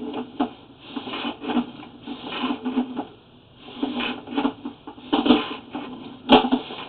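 Flex-shaft drain cleaning machine's spinning chain head rattling and scraping against the inside of a clay sewer pipe in irregular bursts, cutting away tree roots, with one sharp knock a little after six seconds in.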